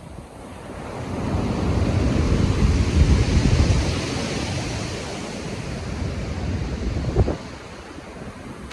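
Stormy sea waves: one wave swells from about a second in, breaks loudest around three seconds, then washes out, with wind buffeting and a short low thump near the end.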